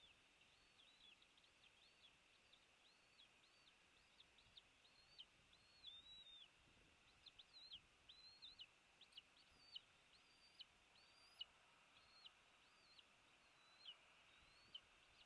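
A bird calling in a long run of short, high chirps, about two or three a second, faint above a steady background hiss.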